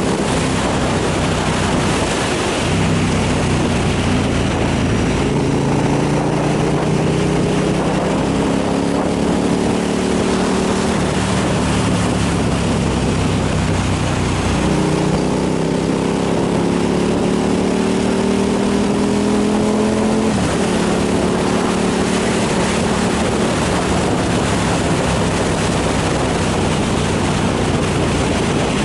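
Motorcycle engine pulling under load, its pitch climbing slowly and then dropping sharply a few times as the rider shifts gears, under a steady rush of wind over the microphone.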